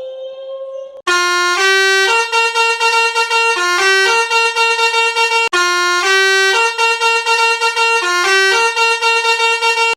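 Musical vehicle horn playing a short tune of stepped notes, starting about a second in and played through twice.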